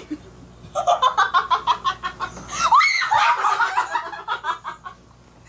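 People laughing: a quick run of laughs, then a high-pitched squeal about halfway through and more laughter that fades out near the end.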